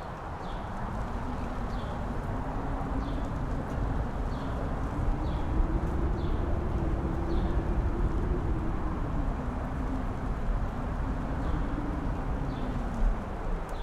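Strong wind blowing over a mountain top, rumbling on the microphone with a moaning howl that slowly rises and falls in pitch. A faint, high chirp repeats about every three-quarters of a second.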